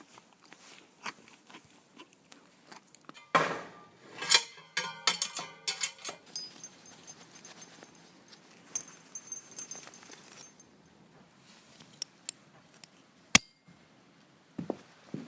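Metallic clinking and jangling with scattered knocks, busiest and loudest a few seconds in, followed by a stretch of high metallic ringing and a single sharp knock near the end.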